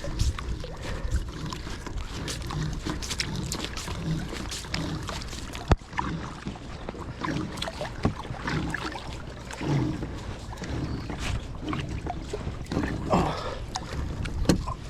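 Kayak on the water: water noise with scattered knocks and clicks against the hull, and one sharp knock about six seconds in.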